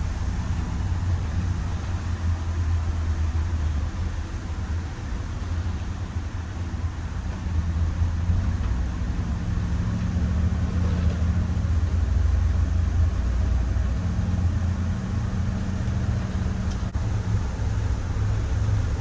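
Micro Bird Girardin G5 bus under way, heard from inside the cabin: a steady low engine drone with road noise, the engine note shifting a little in pitch partway through.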